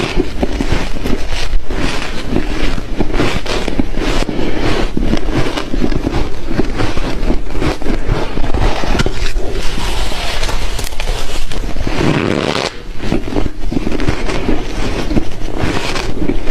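A person biting and chewing big mouthfuls of soft, dry frozen ice, giving a dense, continuous run of crunches and crackles. There is a brief lull about thirteen seconds in.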